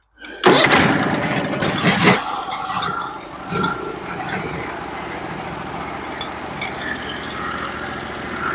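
Norwood HD36v2 portable sawmill's engine starting, loud for the first couple of seconds, then settling into a steady run.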